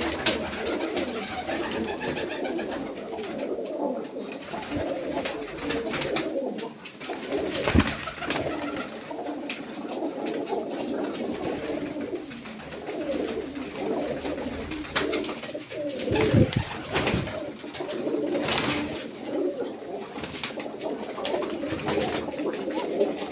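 Several domestic pigeons cooing at once, their low coos overlapping without a break, with scattered sharp clicks.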